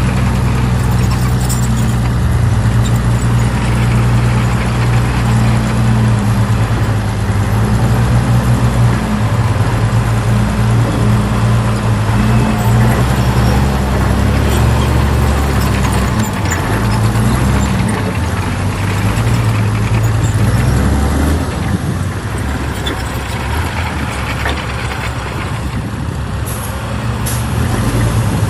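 Heavy diesel engine of earthmoving machinery running steadily, its low drone easing off about three quarters of the way through, with a couple of short high hisses near the end.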